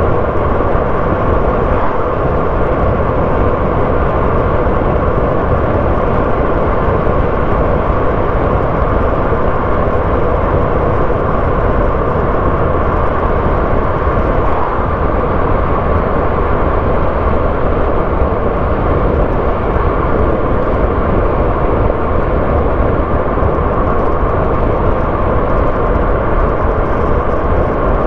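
Car driving along a road: steady engine and tyre noise, even throughout.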